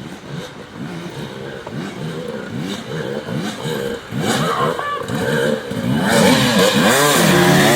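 Vintage motocross dirt bikes racing, their engines revving up and falling back over and over as the riders work the throttle and shift. The bikes grow louder from about halfway through and are loudest near the end.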